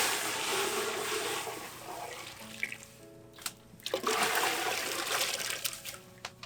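Water rushing or pouring in two spells, loudest at the start and fading, then again about four seconds in, with scattered clicks, over quiet background music.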